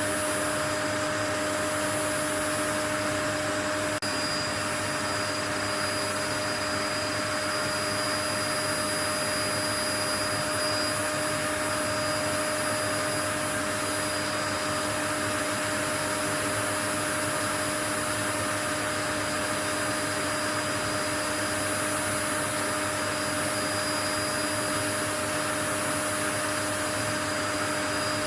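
Continuous white noise: an even, unchanging hiss with several faint steady tones running through it, like a motor-driven appliance left running.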